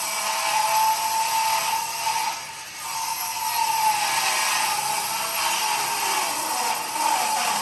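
Electric power tool running on wood, its motor whine wavering in pitch as it works, with a short break about two and a half seconds in.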